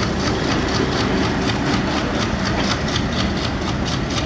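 Diesel-hauled passenger train pulling out, its coaches rolling past with a steady low engine drone and a rapid, even clicking over the top.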